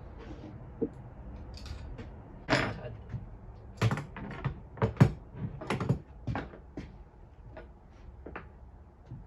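A run of irregular clanks, knocks and clicks of tools and metal parts being handled while an engine is taken apart. The knocks come thickest and loudest in the middle.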